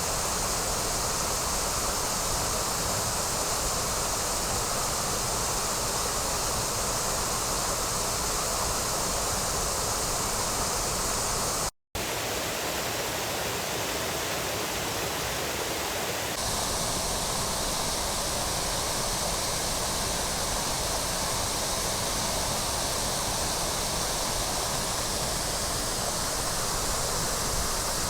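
Waterfall water rushing steadily, an even roar of falling water. It cuts out completely for a split second near the middle, then carries on with a slightly changed tone.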